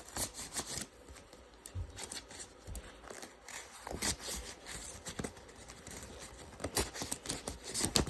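Paper from a handmade paper iMac being worked on and torn apart: scattered crinkles, rips and light taps, busier near the end.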